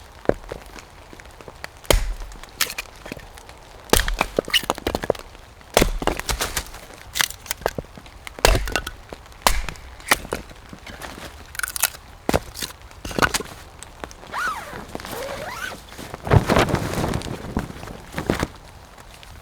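Dry firewood being chopped and snapped: sharp wooden cracks and knocks, the heaviest about every two seconds, then a longer run of cracking and breaking near the end.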